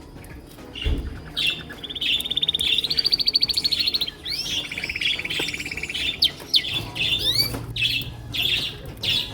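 Male domestic canaries singing: fast rolling trills of rapidly repeated notes, loudest about two to four seconds in, followed by varied chirps and rising whistled glides.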